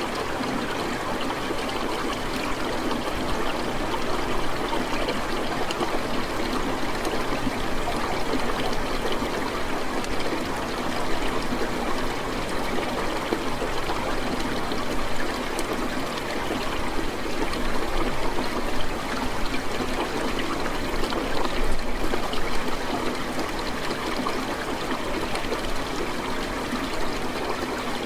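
Steady rain falling, an even hiss that holds without breaks or thunder.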